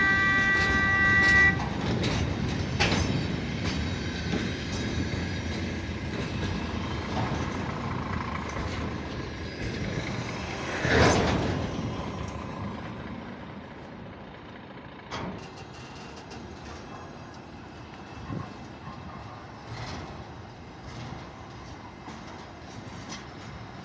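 ChME3 diesel shunting locomotive's horn sounding, cutting off about a second and a half in. Then the train of empty grain hopper wagons rolls past with its wheels clicking over rail joints, a louder clank about halfway through, and the sound fades away.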